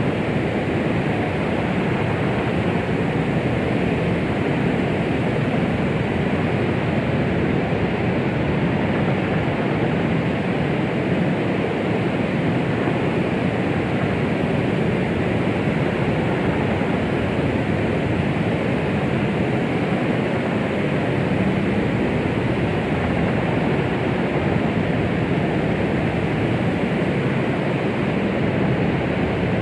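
Steady baby-soothing noise, the kind sold as a womb sound: an unbroken, even rushing hiss, fuller in the low and middle range than in the highs, with no heartbeat or other pulse.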